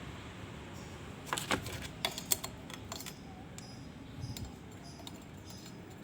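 Light metallic clicks and clinks of small metal parts being handled, a quick cluster a little over a second in, then a few scattered lighter clicks, over a steady background hiss.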